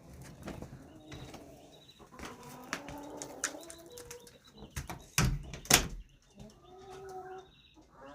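Broody mother hen making low, wavering clucks to her chicks. Two loud sharp knocks come about halfway through.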